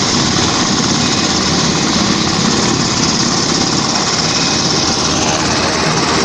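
Army helicopter's rotor and turbine engine running, a loud, steady, fast-pulsing drone.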